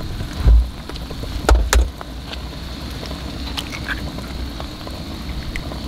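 Steady frying sizzle from fish fillets and sausage patties in bacon grease in a cast-iron skillet and from onions and peppers in a small pan, with a few sharp clicks and low knocks as eggs are cracked into the pan.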